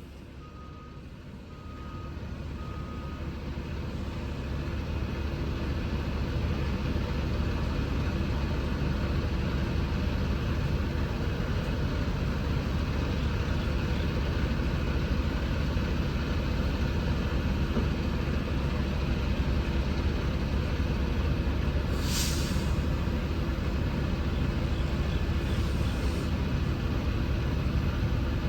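Semi truck's diesel engine running steadily, building up over the first few seconds. Four short beeps at the start and one short hiss of air about three quarters of the way through.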